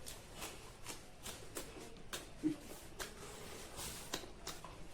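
Close-up eating sounds from a mukbang: soft, irregular clicks and smacks of chewing and mouth noises, a few each second.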